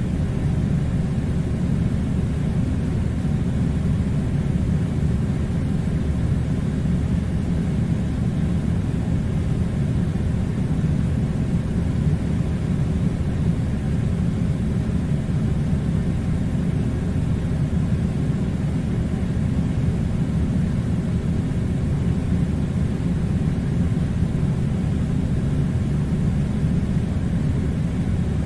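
Steady low rumbling noise, even and unchanging throughout, with no distinct events.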